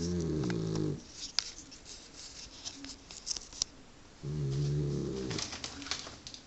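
Dog snoring in its sleep: two low snores, one at the start and another about four seconds later, each lasting about a second.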